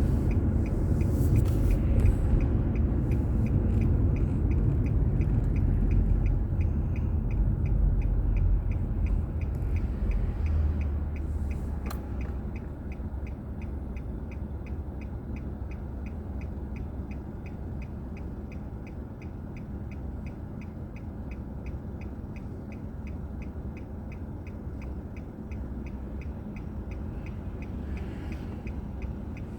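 Car road and engine rumble heard through a dashcam, loud for about the first ten seconds and then dropping to a lower level as the car slows, with a faint steady fast ticking throughout.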